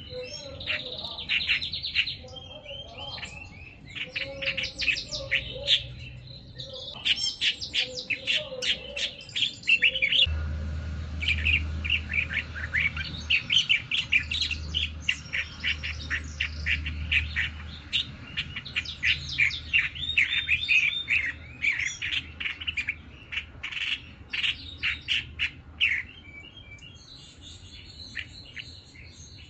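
A bird singing: long runs of rapid, high chirps and trills with short pauses between phrases, thinning out near the end.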